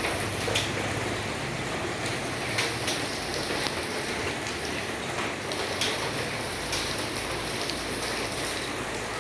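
Steady rain falling and pattering on surfaces, with scattered sharper drop hits every second or so.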